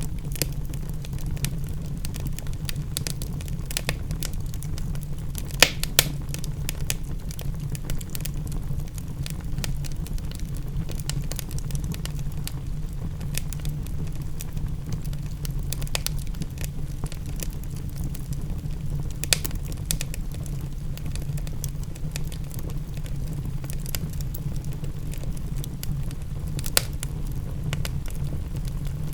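Wood fire crackling in a fireplace, with frequent small snaps and a few louder pops over a steady low rumble.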